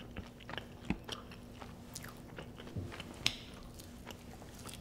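Close-up chewing and biting of crispy fried chicken dipped in sauce: wet mouth sounds with scattered crunches, the sharpest about three seconds in.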